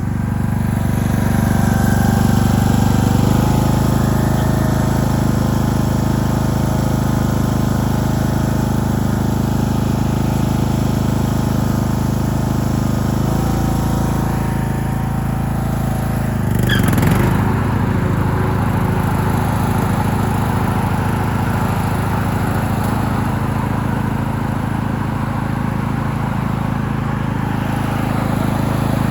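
Tractor engine running steadily, its pitch stepping slightly about three and thirteen seconds in and wavering briefly about seventeen seconds in.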